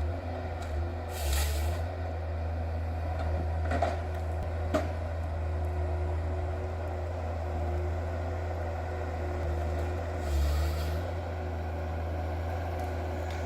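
Diesel engine of a Gremo 1050H forestry machine running steadily under work, a deep constant drone, with a short hiss about ten seconds in and a single sharp click near the middle.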